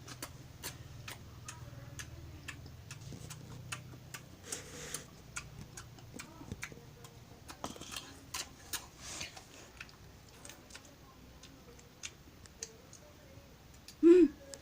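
Irregular soft clicks and wet smacks of eating and chewing. Just before the end there is a short, loud hum that rises and falls in pitch.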